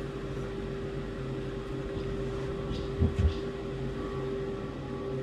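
Steady mechanical hum with a constant tone, like an electric fan or motor running, with two short low thumps about three seconds in.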